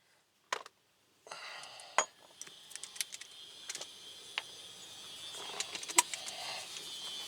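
Metal tools being handled, with sharp clinks and rattles of steel on steel scattered irregularly over a faint steady hiss that starts about a second in.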